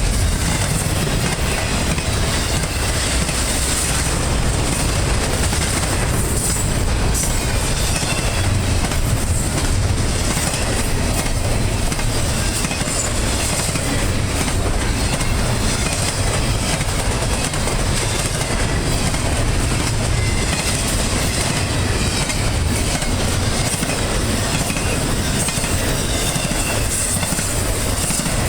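Double-stack intermodal freight train rolling past at steady speed: a continuous rumble with clattering of the car wheels over the rail joints.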